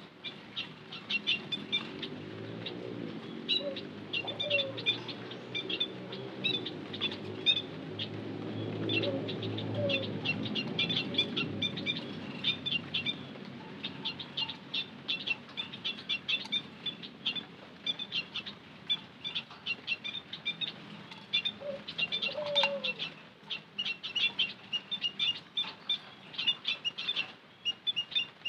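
White-headed munias chirping: a continuous stream of short, high, twittering notes in quick succession, with a low hum underneath during the first half and a few lower, falling notes now and then.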